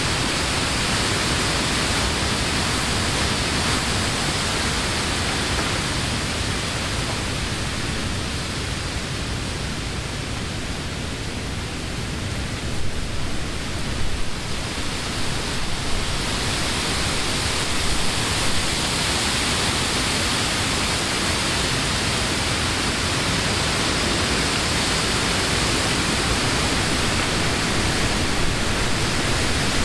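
Summer wind blowing through trees, a steady rushing hiss of moving leaves. It eases a little around the middle, then picks back up with a few brief stronger gusts.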